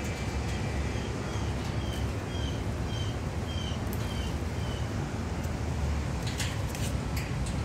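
A small bird chirping: a run of about eight short, high chirps, roughly two a second, over a steady low rumble. A few sharp clicks follow near the end.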